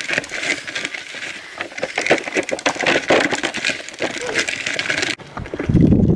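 Dense, irregular crackling and clicking for about five seconds, then after a sudden break a loud low rumble of wind buffeting the microphone near the end.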